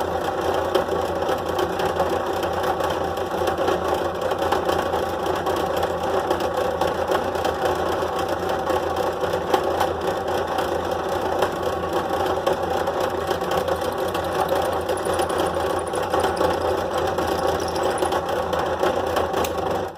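Drill press motor running steadily with the bit cutting into a plastic box, a constant machine hum with a fine, fast rattle; it stops suddenly at the end.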